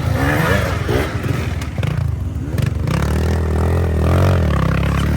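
Enduro motorcycle engine revving up and down as the bike works its way up a slippery rocky climb, with scattered knocks and scrapes of stones. The revs climb about three seconds in.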